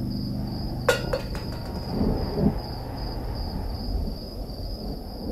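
Low rumble of thunder over a steady high-pitched cricket trill, with a sharp clink and a few quick ticks about a second in.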